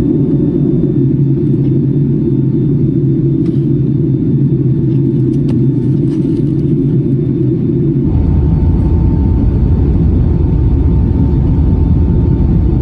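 Boeing 757-300 cabin noise: a steady rumble of engines and airflow. About eight seconds in it shifts to a deeper, stronger rumble with a faint steady whine.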